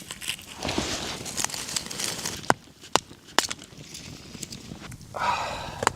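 Rustling of a wool blanket and clothing as a person shifts under it. Three sharp cracks come in the middle, and a short grunt-like voice sound comes near the end.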